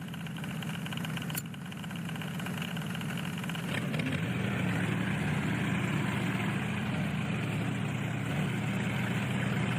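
A motor running steadily with a low hum, growing louder over the first few seconds and then holding level, with a sharp click about one and a half seconds in.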